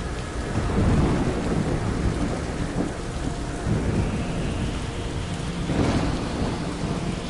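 Thunderstorm: steady heavy rain with thunder rumbling, swelling about a second in, and a sharper thunderclap near the end.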